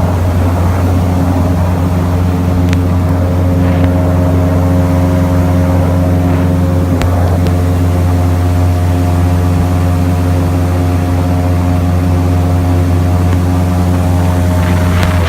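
Airboat's engine and air propeller running steadily at a constant pitch, a loud low drone.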